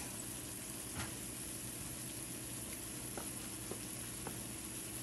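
Battered plantain slices frying in shallow oil in a small pan: a steady sizzle with a few faint pops.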